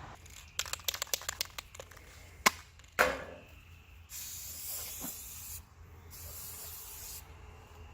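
Two sharp .22 rifle shots about half a second apart, from a Ruger 10/22, shortly after a quick run of light clicks. Two stretches of hiss follow later.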